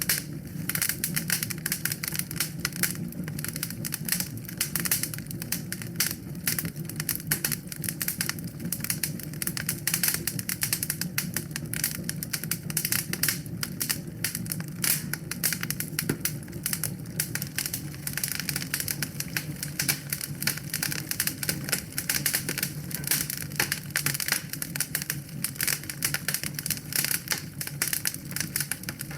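Wood fire crackling in a fireplace: dense, irregular sharp snaps and pops over a steady low rumble of the flames.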